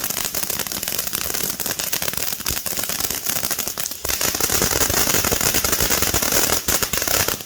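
Consumer firework fountain (Phantom Fireworks 'Fiery Frogs') burning: a steady spray hiss thick with crackling, growing louder about four seconds in.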